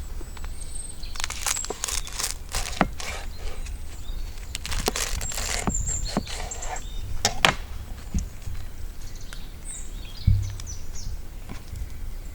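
Scattered rustles and knocks, like handling or footsteps, with a few faint high bird chirps over a steady low rumble.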